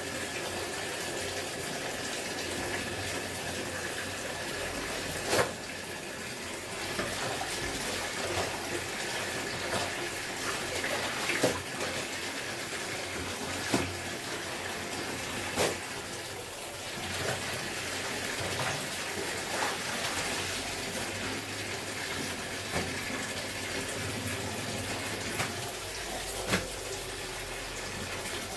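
Water running and splashing steadily as clothes are washed by hand, with a few sharp knocks now and then.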